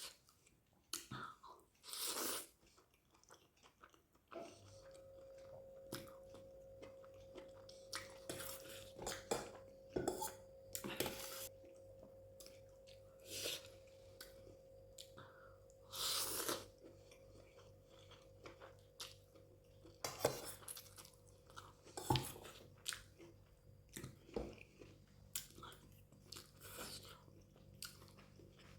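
Close-miked eating: a person chewing mouthfuls of spaghetti chowmein with egg curry, in short irregular bursts. A steady hum with one held tone comes in about four seconds in.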